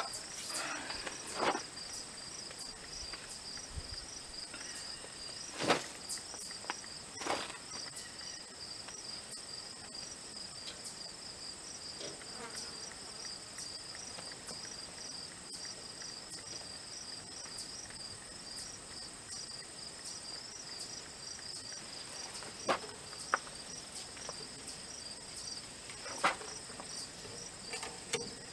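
Crickets chirping steadily in a fast, even, pulsing trill, with a higher steady insect hum above it. A few short sharp taps or knocks come through now and then, the loudest about six seconds in.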